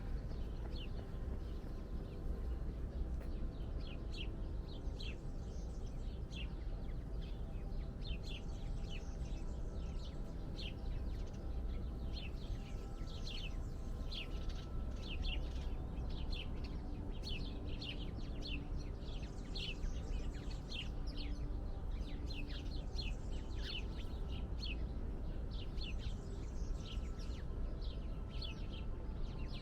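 Birds chirping: short high chirps, a few a second, with no let-up, over a steady low rumble.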